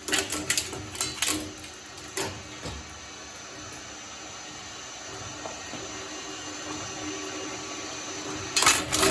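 Shredder running with its motor humming steadily, with sharp crunching and crackling of material being shredded in the first two seconds and again near the end.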